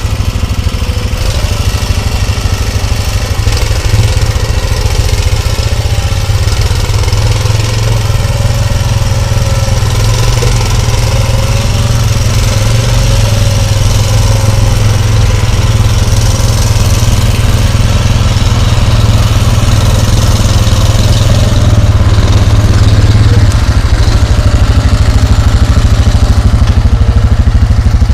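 A vehicle engine running steadily, growing slightly louder toward the end.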